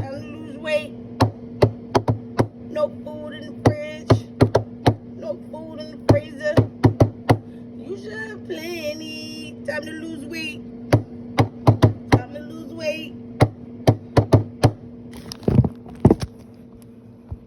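Sharp knocks in an uneven beat, with short wordless vocal sounds between them over a steady low hum.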